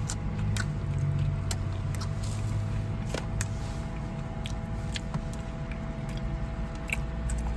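Chewing and crunching on a crispy fried chicken wing: scattered short crunchy clicks over a steady low hum.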